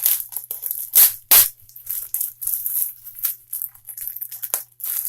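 Packaging being handled: a run of quick crinkling and rustling crackles, with two louder ones about a second in.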